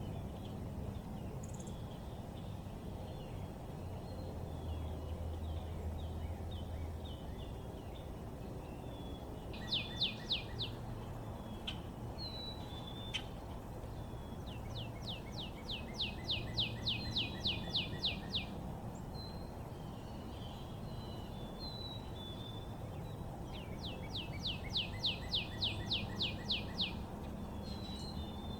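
Songbirds calling, with one bird giving a fast trill of repeated notes three times, a short one and then two of about three seconds each, between scattered short chirps. A steady low background rumble runs underneath.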